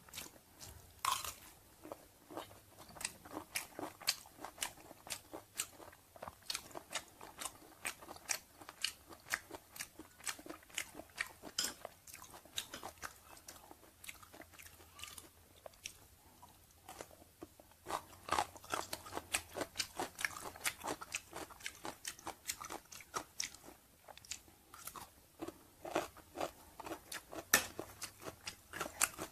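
Close-miked chewing of stir-fried chicken organs with rice: wet, crisp mouth clicks and crunches coming several times a second, thinning out for a few seconds in the middle and densest just after.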